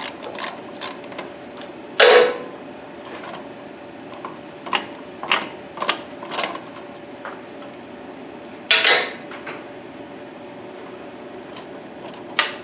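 Hand tools working a small nut on metal: scattered clicks and clinks of a socket wrench on a long extension, with two louder metallic clanks that ring briefly, about two seconds in and again near nine seconds.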